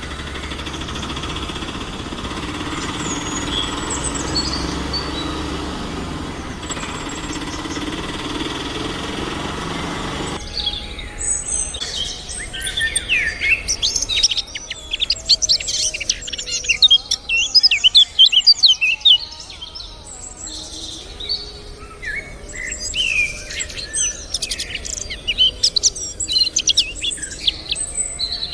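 A steady hiss with a low hum for about ten seconds, then a sudden cut to lively birdsong: many quick chirps and twitters, busiest in the second half.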